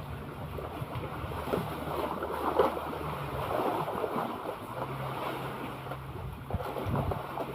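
Sea water splashing and lapping, with wind buffeting the microphone and a few sharp splashes or knocks. A low steady hum is heard for the first few seconds, drops out, then returns for a stretch before the end.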